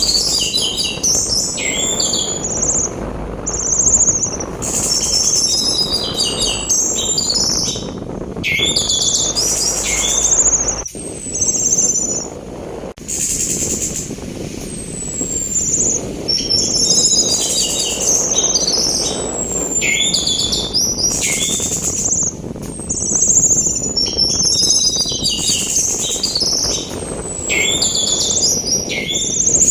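Orange-headed thrush singing in rapid, repeated phrases of high chirps and falling whistles over a continuous rushing sea wind. The sound breaks off abruptly twice, about eleven and thirteen seconds in.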